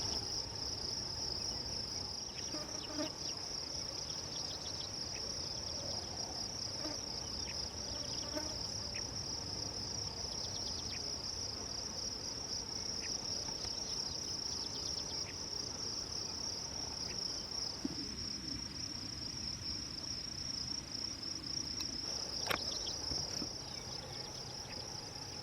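Steady, high-pitched drone of insects in the grass, unbroken throughout, with one sharp click near the end.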